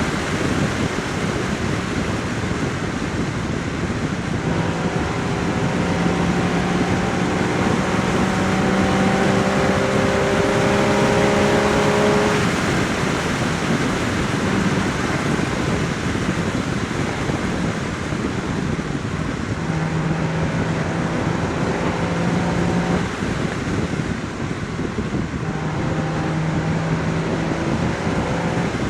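Porsche Boxster Spyder 981's 3.8-litre flat-six exhaust while driving, over heavy wind and road rush. The engine note climbs slowly under light throttle, drops away near the middle, then comes back twice at a steady pitch.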